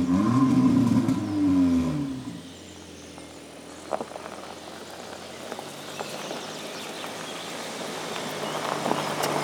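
Cupra Formentor VZ's 2.0-litre turbocharged four-cylinder engine note as the car passes, its pitch falling as it goes by, then fading out about two seconds in. A quiet stretch follows, with a single sharp knock about four seconds in and a broad rushing noise that slowly grows louder toward the end.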